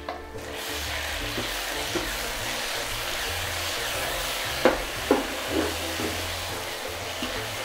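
Blended spice paste sizzling steadily in hot oil in a wok as it is stir-fried, the hiss starting about half a second in. A wooden spatula knocks against the pan a few times about halfway through.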